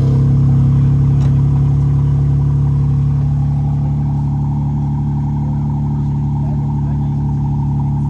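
Car engine running steadily close by, its pitch holding even throughout.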